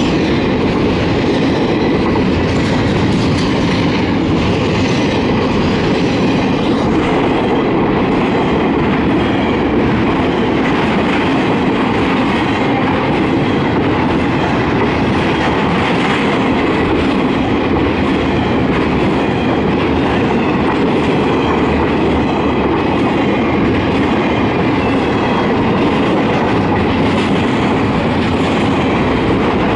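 Intermodal freight train's cars, double-stack container well cars and flatcars carrying truck trailers, rolling past at close range: a loud, steady noise of steel wheels running on the rails, with a continual clicking rattle and no break.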